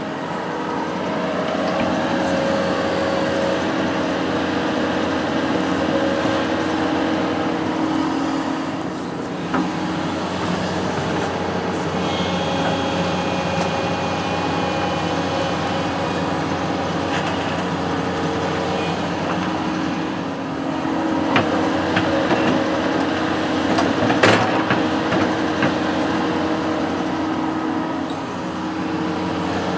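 Construction machine's engine running steadily, with a higher whine for several seconds in the middle and a few sharp knocks, the loudest about 24 seconds in.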